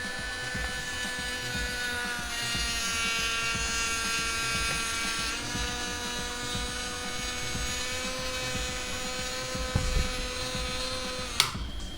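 Small electric motor of a toy car running steadily with a high whine, its pitch stepping slightly a couple of times. It cuts off with a sharp click near the end.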